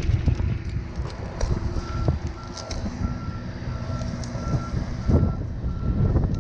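A vehicle's reversing alarm beeping steadily, about one and a half beeps a second, starting about two seconds in, over wind rumbling on the microphone.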